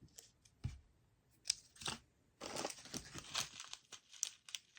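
Plastic snack wrappers crinkling and rustling as individual packets are handled, with a soft knock just under a second in as a packet is set down, and a denser run of crinkling in the second half.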